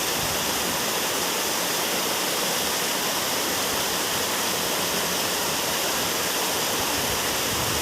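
Steady rushing of floodwater in an overflowing stream, an even, unbroken wash of water noise.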